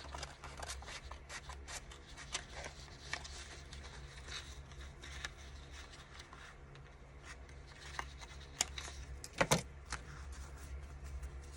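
Decorative paper being handled on a craft table: light rustling, rubbing and small taps, with a sharper double knock about nine and a half seconds in, over a steady low hum.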